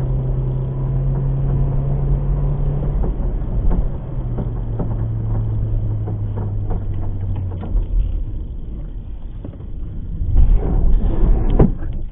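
A vehicle's engine running with a low steady hum that drops in pitch twice, with knocks and rattles over it and louder clattering near the end.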